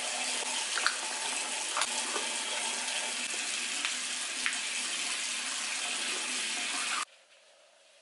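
Water running from a sink tap, with a few light knocks over it, shut off abruptly about seven seconds in.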